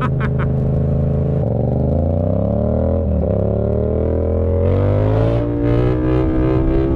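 Yamaha MT-07's parallel-twin engine through an unbaffled SC Project CRT full exhaust system, holding steady and then accelerating about a second and a half in. It rises in pitch, drops briefly around three seconds in as if on a gearchange, then climbs again and settles.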